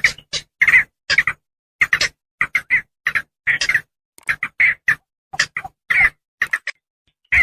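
Javan pond heron calls: short calls, often in pairs, coming about three a second in an uneven run, each with a clean silent gap after it.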